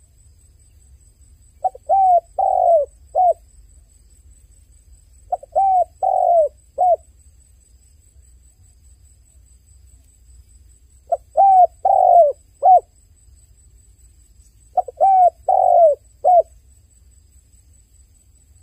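A dove cooing in four phrases spaced a few seconds apart. Each phrase has four arched coos: a short one, another short one, a longer one, then a short closing coo.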